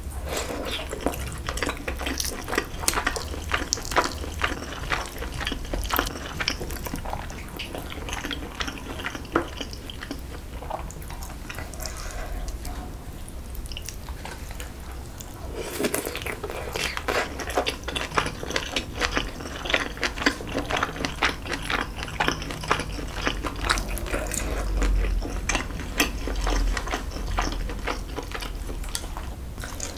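Close-miked eating of braised kimchi and pork back ribs: chewing with many quick, wet mouth clicks, and chopsticks clicking now and then against the dishes. The clicking thins out briefly about halfway through.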